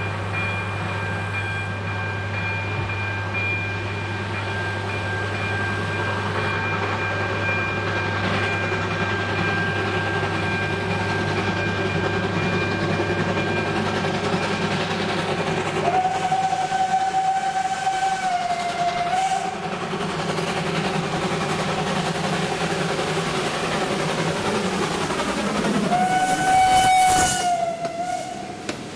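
Passenger train approaching and running over a level crossing, sounding its horn twice: one blast a few seconds long just past the middle and a second near the end, each sagging slightly in pitch as it stops.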